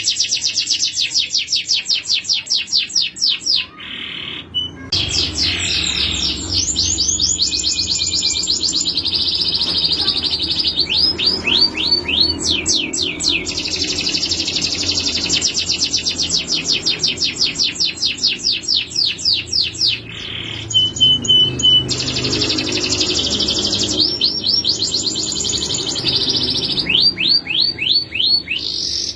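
Male domestic canary singing a long song of fast, rapidly repeated notes (rolls and trills), with quick downward-sweeping phrases and short whistled notes, pausing briefly twice.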